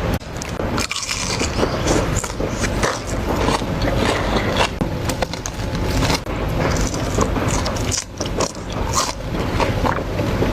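Close-miked eating: chewing with many irregular crunches and clicks, over a steady low rumble.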